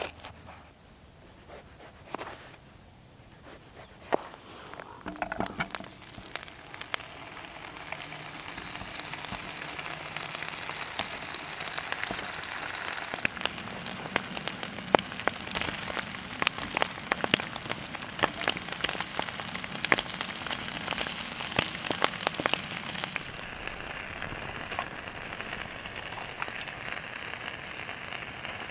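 A few knife taps on a wooden cutting board, then from about five seconds in, sausage slices frying in a nonstick pan: a steady sizzle full of spitting crackles, a little softer near the end.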